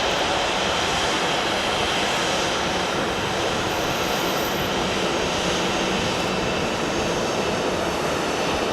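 Jet airliner's engines at takeoff power, a steady, loud rushing noise.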